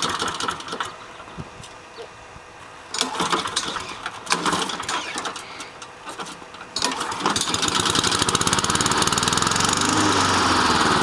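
Honda walk-behind lawn mower engine running, then dropping away about a second in. A few sharp clatters follow, then the engine catches again with no choke about seven seconds in and runs steadily.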